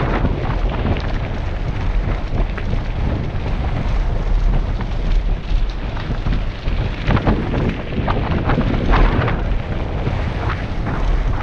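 Wind buffeting a helmet-mounted GoPro HERO5 Black during a fast downhill bike ride, a heavy rumble throughout, with irregular rattles and knocks from the bike running over a rough, unpaved gravel road.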